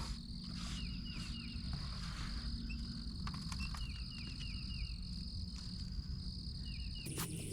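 Garden ambience: insects trilling in a steady high whine, with a bird calling in short runs of quick down-slurred chirps. Acoustic guitar music comes in near the end.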